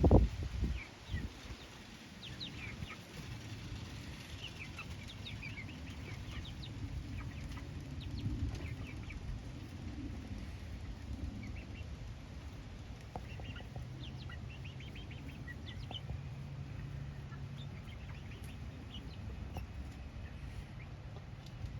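Chickens clucking now and then in short, scattered calls, over a low rumble of wind on the microphone.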